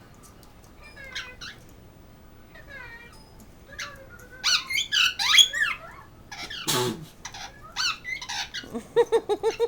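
Red-lored Amazon parrot calling: a few soft chirps, then a loud stretch of rapid whistles and chirps sliding up and down in pitch, a harsh screech, and near the end a quick run of short repeated calls.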